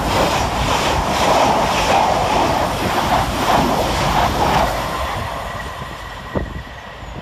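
Thameslink Class 700 Siemens Desiro City electric multiple unit passing through at speed close by, its wheels clattering on the rails. The noise fades away as the train recedes from about five seconds in, with a single sharp knock near the end.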